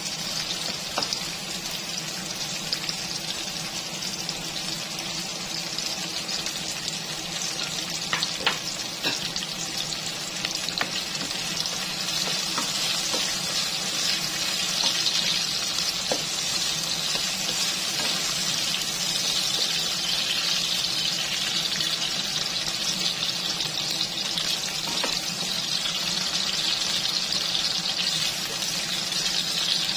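Red and green bell pepper pieces sizzling in hot oil in a nonstick wok as a ladle stirs and scoops them, with a few sharp knocks of the ladle against the pan. The sizzling grows a little louder about halfway through.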